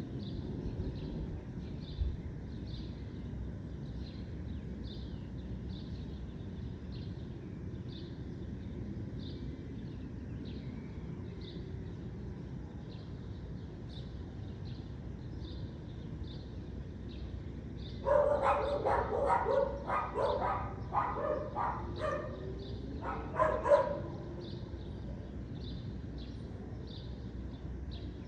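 A dog barking about a dozen times in a quick run a little past the middle, with a short pause before the last two barks. Underneath there is a steady low outdoor rumble and a faint, regular high chirp repeating about one and a half times a second.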